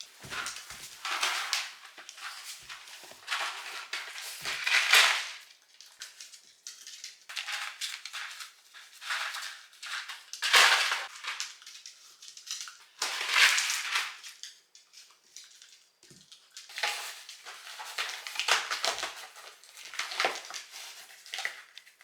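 A small Shiba Inu chewing dry dog food: irregular bursts of crunching, with short pauses between mouthfuls.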